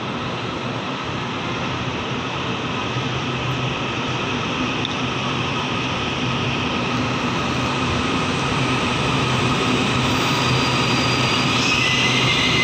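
Train running at the station platform, a steady rumble with a low hum that grows gradually louder.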